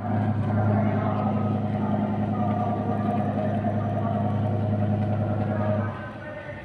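A motor running steadily with a low hum, cutting off abruptly near the end.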